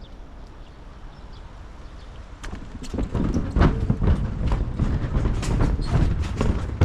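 Bicycle ridden over a rough surface, with low wind and road rumble; about two and a half seconds in it turns louder, into a quick irregular clatter of knocks and rattles from the bike.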